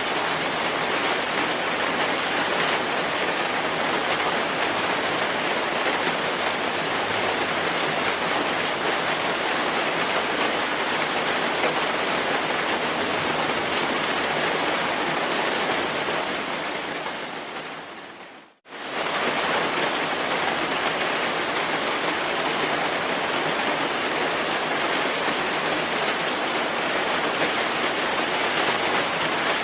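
Steady, dense rainfall, a continuous hiss of drops. About two-thirds of the way through it fades to silence over a couple of seconds, then cuts straight back in.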